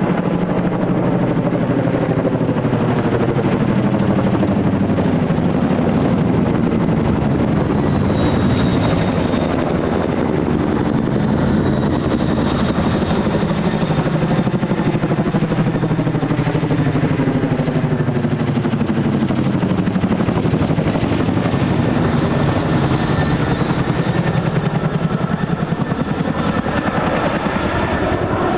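Military helicopters of the kind here, CH-47 Chinooks and AH-64 Apaches, flying close by. Their rotors make a rapid, even beat under a high turbine whine. The pitch slides as they pass, most strongly from about 8 to 24 seconds in.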